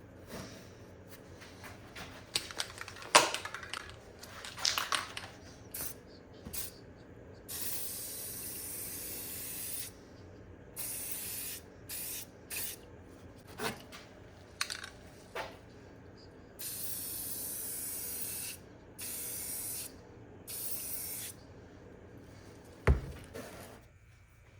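Aerosol spray can hissing in a series of short bursts, a longer one held about two seconds, with light knocks and clicks of handling between them and one sharper knock near the end.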